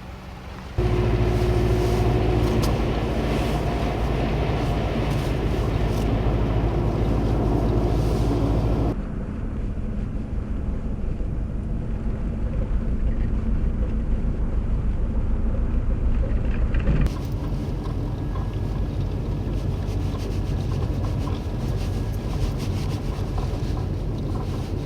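Vehicle engine and road noise, a steady low rumble in three stretches that change abruptly about a second in, about nine seconds in and about seventeen seconds in.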